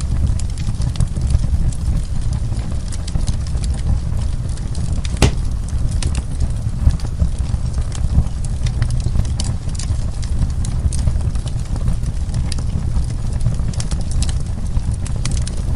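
Wood fire burning, with a steady low rumble of the flames and frequent sharp crackles and pops of the burning wood, one louder pop about five seconds in.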